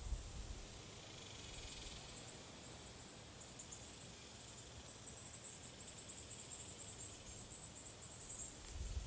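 Faint, very high-pitched chirping trills from small animals, coming in short rapid runs from about a second and a half in, over a low outdoor hiss.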